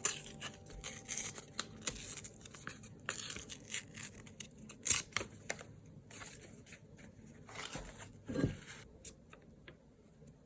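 Paper being handled and torn for a journal collage: rustling, tearing and small clicks and taps, with one sharp snap about five seconds in.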